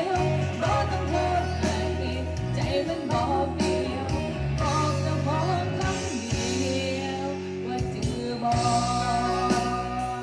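A song with singing and guitar played through an MBA J80A portable Bluetooth speaker, with a strong bass.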